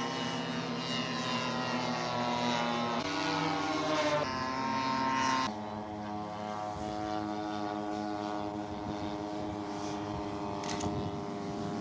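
Radio-controlled scale model airplane's engine running in flight, its pitch stepping up and down with throttle changes. It drops in pitch and gets quieter about five and a half seconds in.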